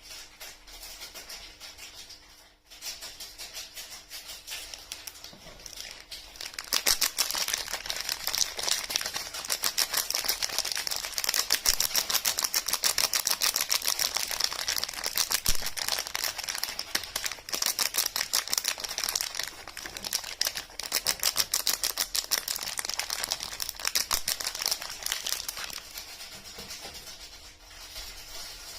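Close-miked rapid, crisp crackling clicks, many per second, from soap and its wrapping being handled; sparse at first, dense from about a quarter of the way in, easing off near the end.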